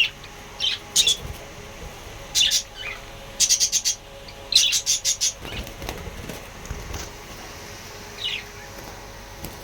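Pet parrots calling: sharp, high chirps and squawks, some single and some in quick runs of several notes, coming about once a second.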